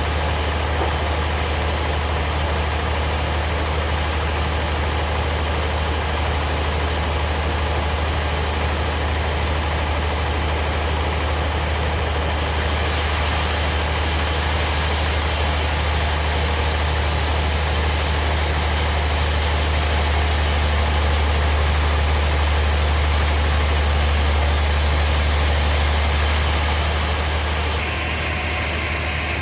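Bandsaw sawmill running with a steady low drone. About twelve seconds in a high hiss joins it and holds until shortly before the end, as the blade cuts through the wood.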